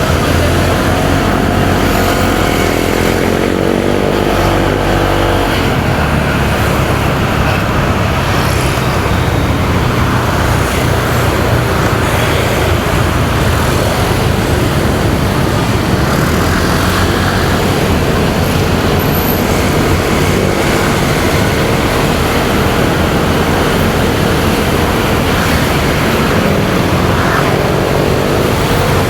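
Motorcycle riding in traffic: the engine runs under way amid heavy wind and road noise on the microphone. The engine pitch rises and falls over the first few seconds and again near the end.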